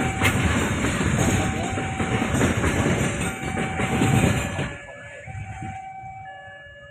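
Passenger or freight train passing close by on the rails, a loud rumble of wheels and cars that cuts off sharply about four and a half seconds in as the end of the train goes by. Steady tones at a few changing pitches continue faintly after that.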